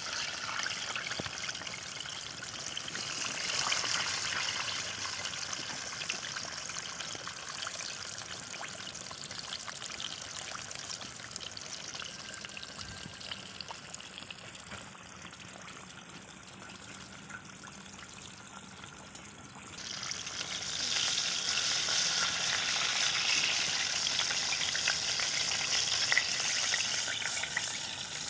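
Chicken pieces deep-frying in hot oil, sizzling steadily, cooked through and ready to lift out. The sizzle gets louder about twenty seconds in.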